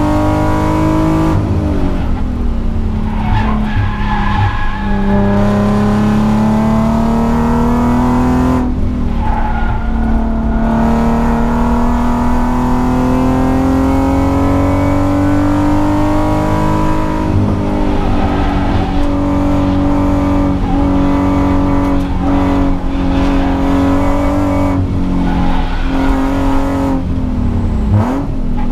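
Nissan 300ZX's 3.0-litre VG30DE V6 under hard driving on a race lap, heard from inside the cabin. The engine note climbs and falls back, with sudden drops at gear changes about two and nine seconds in, a long climb to about seventeen seconds, a slow fall after that, and a quick dip and blip near the end as the driver shifts.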